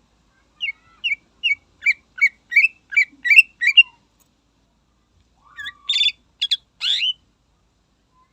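Green leafbird (cucak ijo) singing: a run of about ten quick, repeated chirps, about three a second, then after a pause a few harsher, buzzier notes.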